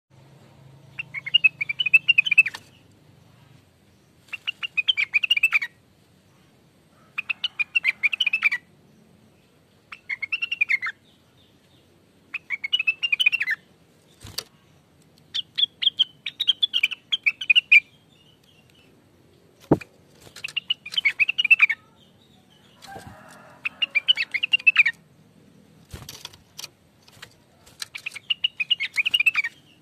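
Rengganis (cucak wilis) leafbird singing in short bursts of fast, high chattering notes, about a dozen phrases with brief pauses between them. A few sharp clicks fall between phrases.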